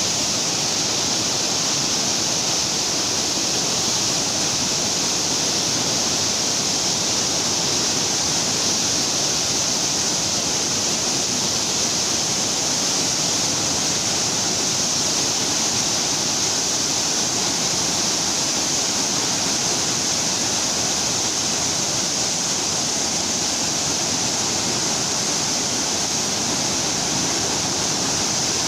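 Fast-flowing river water in flood, a steady, unbroken rush of water with a strong hiss.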